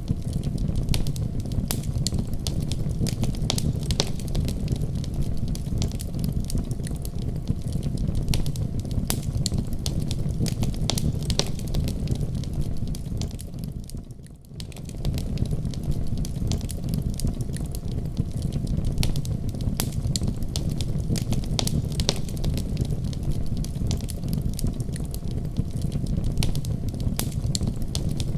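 Fire crackling in a fireplace: many sharp, irregular pops and snaps over a steady low rumble. About halfway through, the sound fades down for a moment and comes back up.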